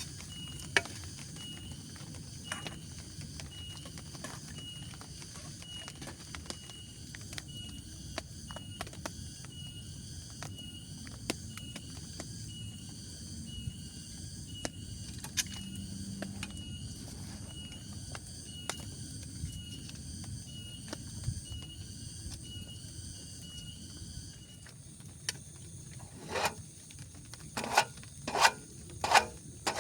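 Night forest ambience: insects chirping, one high chirp repeating a little more than once a second over a steady high buzz, with a low rumble of wind or rain beneath. Scattered light taps of dripping water, and a few louder sharp knocks near the end.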